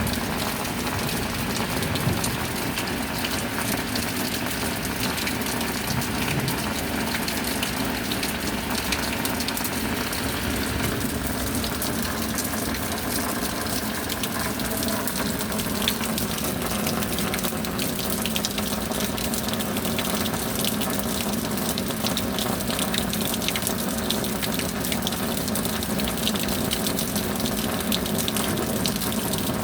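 Steady rain falling, an even, unbroken wash of water noise, with a faint steady hum underneath.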